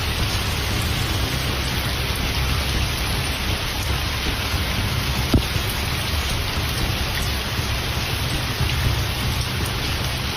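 Heavy rain pouring down in a steady hiss, with one sharp tap about five seconds in.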